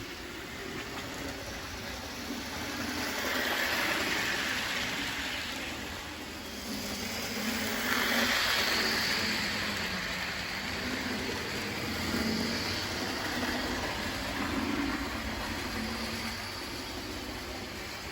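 HO-scale model train running on a loop of track, its motor and wheels whirring. It grows louder as it passes close, around four and eight seconds in, then fades back.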